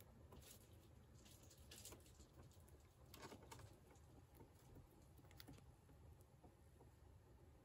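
Near silence: room tone with a low hum and faint, scattered clicks and scratches.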